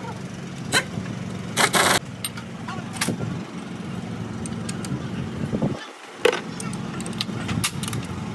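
A steady low machine hum with sharp metallic clicks and knocks scattered through it, and a short harsh burst just under two seconds in; the hum briefly drops out about six seconds in.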